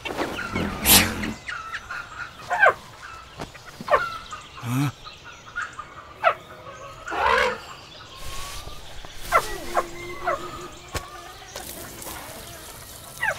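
Chickens clucking and calling, short separate calls scattered throughout, with a louder call about seven seconds in.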